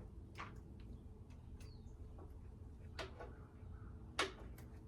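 A few faint, sharp clicks and taps from hands working on motorcycle wiring and small parts, over a low steady hum.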